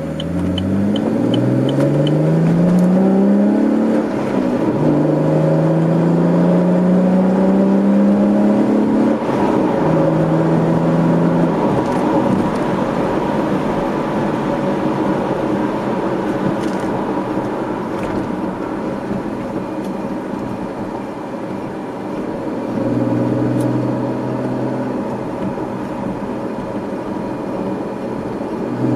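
2013 Camaro's 3.6-litre V6 through a GM axle-back performance exhaust, pulling up through the gears of its manual gearbox. The revs climb twice with a shift between them, then the car settles into steady cruising with a brief rise in revs near the end.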